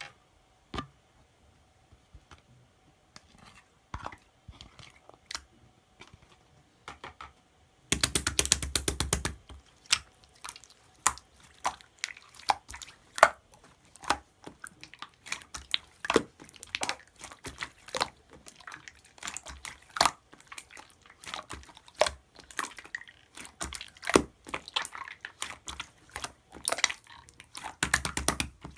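Clear slime being squished and poked by hand, making wet, sticky clicks and pops. The clicks are sparse at first, a dense burst of crackling comes about eight seconds in, and frequent popping follows.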